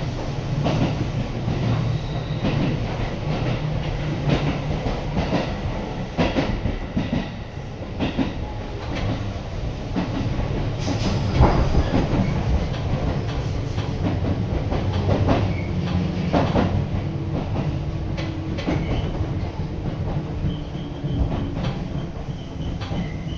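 Running noise inside a Seibu Tamako Line electric train car: a steady low rumble with irregular clicks and knocks of the wheels over rail joints. A steady high whine comes in near the end.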